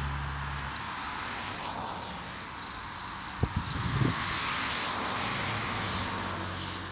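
Steady road traffic noise at a street crossing, with a low vehicle engine hum fading out under a second in. A couple of short knocks come about three and a half seconds in.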